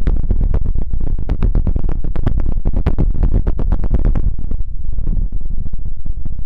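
Close-miked scratching and rubbing, many quick strokes a second over a deep rumble, briefly thinning out a little past the middle.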